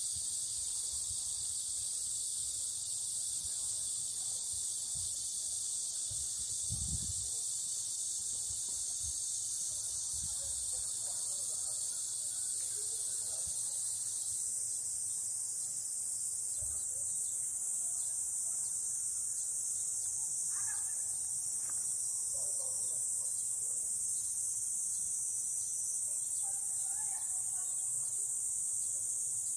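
A steady, high-pitched chorus of insects buzzing without a break. About halfway through, its lowest voices drop out and the sound becomes a little thinner.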